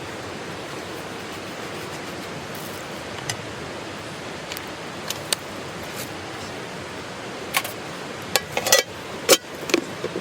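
Campfire burning with a steady hiss and scattered sharp crackles, which come thicker and louder in the last few seconds.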